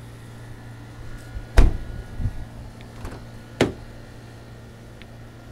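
A few sharp knocks and clunks over a steady low hum. The two loudest come about a second and a half in and two seconds later.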